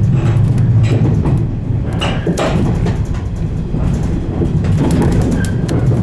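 A 115 series electric train running, a steady low rumble with scattered short clicks and knocks from the running gear.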